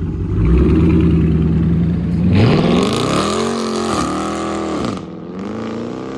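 A car engine running steadily, then revved repeatedly from about two seconds in, its pitch climbing and falling several times in quick succession, with one more rev after a short drop near the end.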